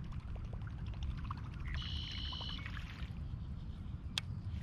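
Water lapping and trickling against a kayak hull, over a steady low rumble of wind on the microphone. A brief high-pitched sound comes about two seconds in, and a single sharp click near the end.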